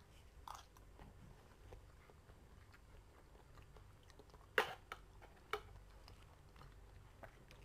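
Faint, close chewing of a mouthful of food, with a few sharp clicks of a metal fork and spoon against a ceramic plate, two louder ones about halfway through.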